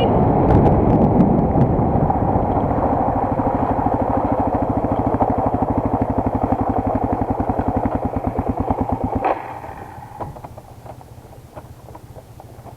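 Single-cylinder enduro motorcycle engine idling with an even beat, then switched off about nine seconds in. A few faint clicks follow.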